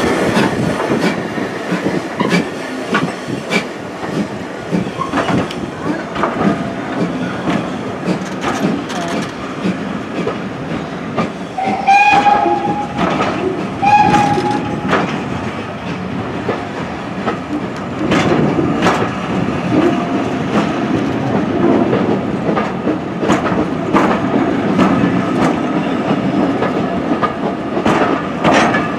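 A train of LNER teak coaches rolling past, with the wheels clicking over the rail joints and a steady running rumble. Twice near the middle, two seconds apart, there is a short, steady, whistle-like tone.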